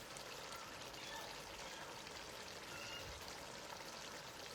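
Faint steady hiss with light scattered crackles: spinach stew simmering in the pot.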